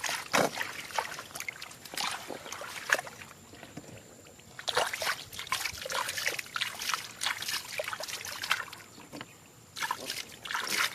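Shallow water splashing and sloshing in irregular bursts, with a lull just before halfway and another shortly before the end.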